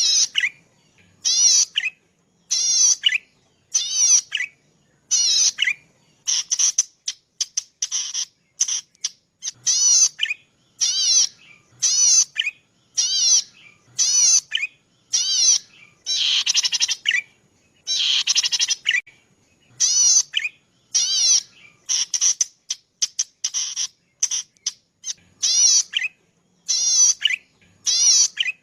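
Cici padi, a small rice-field warbler, singing: a high, buzzy trill of rapid repeated notes about half a second long, given over and over roughly every second and a bit, with a few longer, harsher phrases midway.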